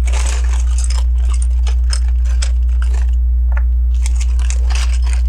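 Small plastic LEGO pieces clicking and rattling as they are handled, over a steady low hum.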